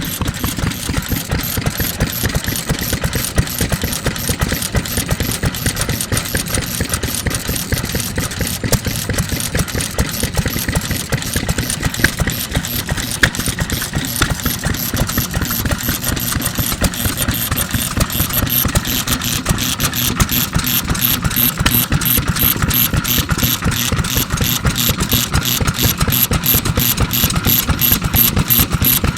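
1948 NATIONAL Type FK 3 hp stationary oil engine running steadily, with a fast, even mechanical clatter from its moving parts; the clicking grows more pronounced in the second half.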